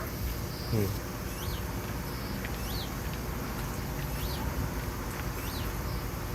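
Small songbirds chirping: short, high chirps repeating about once a second over a steady background hum, with one brief, lower, falling whine about a second in.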